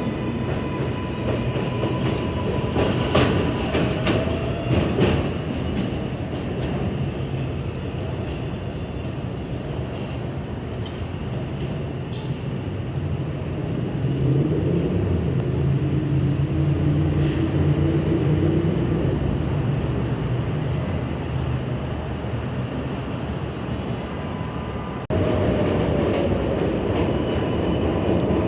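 New York City subway train running through the station, with wheels clacking over rail joints a few seconds in and a steady rumble and hum from the train throughout. The sound changes abruptly near the end.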